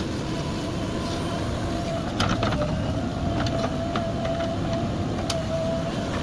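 JCB 3DX backhoe loader's diesel engine running steadily with a thin, steady whine over the rumble, and a few sharp clicks or knocks scattered through.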